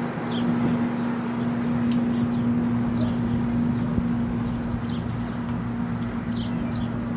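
A steady low hum runs throughout, with about five short, high, falling bird chirps scattered over it and one sharp click about two seconds in.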